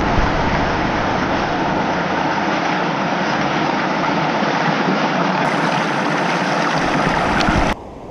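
Loud, steady rush of water pouring over a river waterfall, cutting off abruptly near the end.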